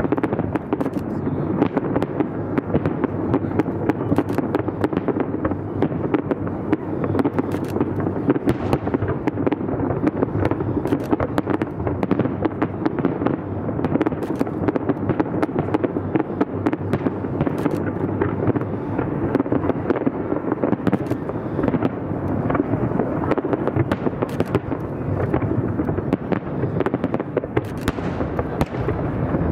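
Fireworks exploding in a dense, continuous barrage: rapid crackling reports over a constant rumble.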